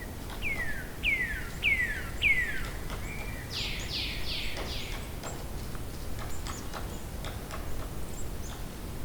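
A bird singing: four clear whistled notes, each falling in pitch, in the first few seconds, followed by a quick run of four higher notes, then scattered short chips and clicks over a low steady background hiss.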